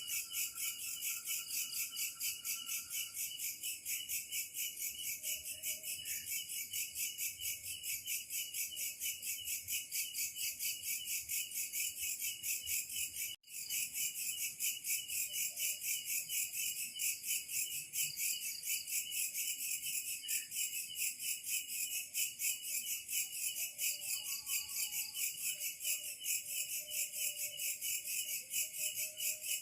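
Steady chorus of chirping insects, with a rapid, even pulse throughout and faint short calls underneath. The sound cuts out for an instant about 13 seconds in.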